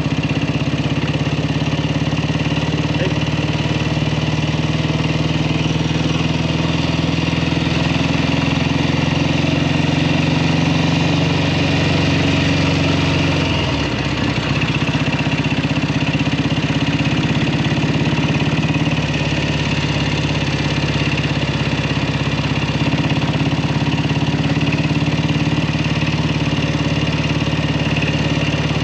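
1967 Kawasaki W1 650's parallel-twin engine running steadily while being ridden, with a brief dip in the engine note about halfway through.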